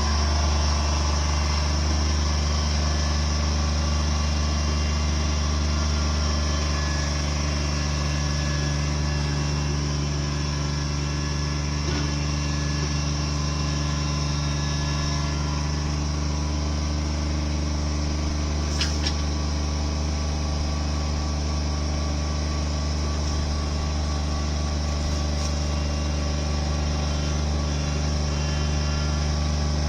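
Engine of land-clearing machinery running steadily at an even speed, with one brief click a little past the middle.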